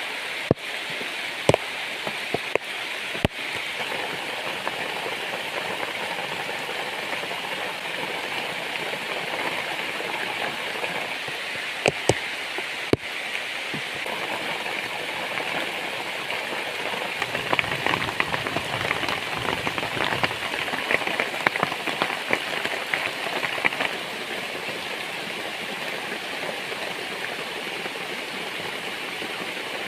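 Heavy rain falling steadily, with a few sharp clicks in the first few seconds and again about twelve seconds in, and a denser, louder patter from about seventeen to twenty-four seconds.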